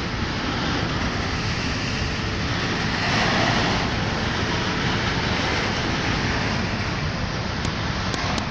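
Steady rumble and rush of a moving train, heard from on board, swelling slightly about three seconds in.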